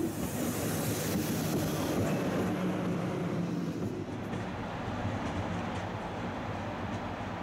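SNCF TGV Réseau high-speed train moving past close by, a steady rolling and running noise. About four seconds in the hiss fades and it settles to a quieter, steady low rumble of the train.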